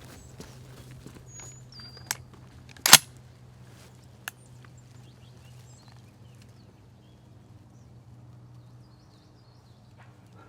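A single loud shotgun shot about three seconds in, with a sharp click just before it and another shortly after; a bird chirps briefly before the shot.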